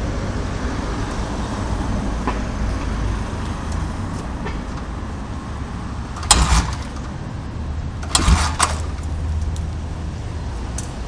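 Hard-starting early-1960s Triumph Tiger parallel-twin motorcycle engine with straight pipes being started: a steady low rumble with two short, loud, sharp bursts about six and eight seconds in.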